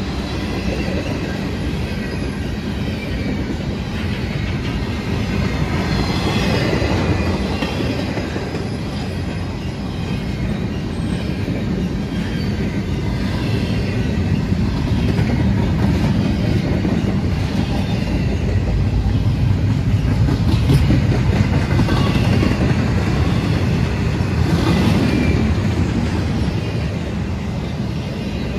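A train rolling past at close range: a continuous rail rumble with wheels clattering over the rail joints and faint high wheel squeal at times.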